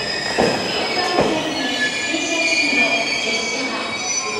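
E721-series electric train squealing in several high, steady tones as it brakes to a stop, with two short knocks in the first second or so.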